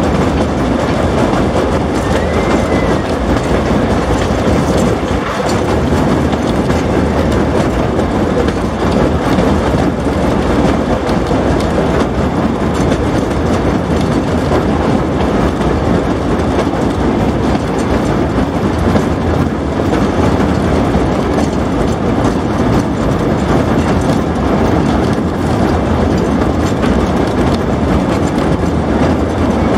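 Narrow-gauge railway coach running along the track: steady, even running noise of wheels on the rails, heard from the coach window.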